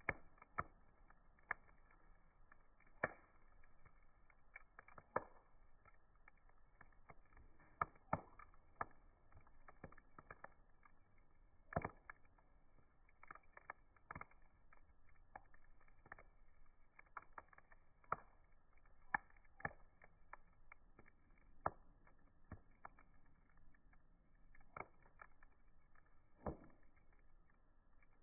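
Campfire crackling: irregular sharp pops and snaps from burning wood over a faint steady hiss.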